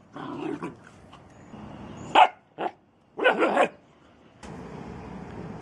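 Dogs barking: a sharp bark about two seconds in, a short one right after, then a quick run of three or four barks a little after three seconds.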